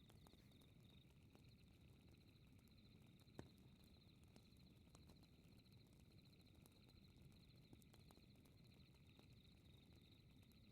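Faint crackling fireplace with a low rumble and scattered sharp pops, the loudest about three and a half seconds in, under a steady high chirping of night insects such as crickets.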